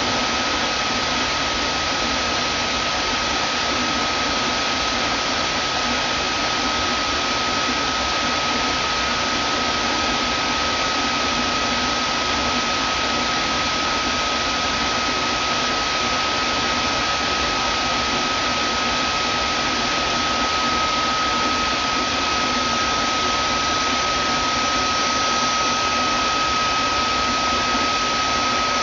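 Vacuum cleaner running steadily: an even rushing noise with a high, constant motor whine.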